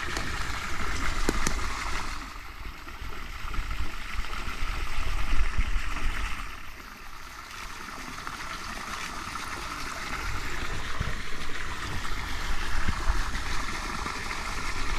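Water trickling and gurgling steadily, with a low rumble underneath.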